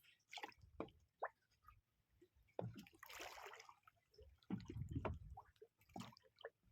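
Faint water sounds, scattered drips and small splashes, with a few light knocks.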